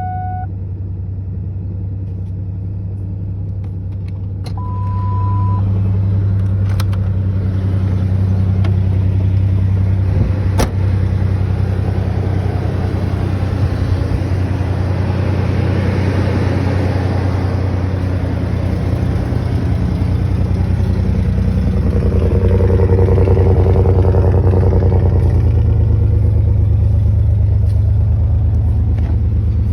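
1998 Ford Ranger pickup's engine running steadily, getting louder about four seconds in, with a short beep about five seconds in.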